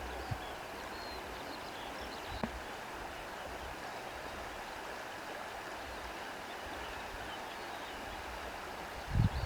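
Steady rush of sea water with rustling reeds, a continuous even wash of sound. Two faint clicks come early, and a short low thump near the end is the loudest moment.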